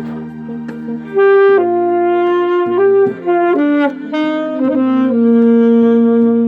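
Alto saxophone playing a slow melody of long held notes over a backing track.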